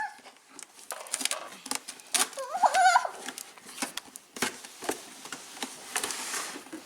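Cardboard box being opened and the packaging handled: irregular clicks, knocks and rustling. A brief high-pitched vocal sound comes about two and a half seconds in.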